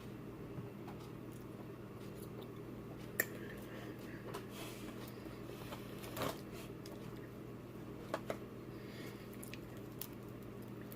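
Soft eating and shell-handling sounds of king crab legs being picked apart: a few scattered sharp clicks and cracks, over a low steady hum.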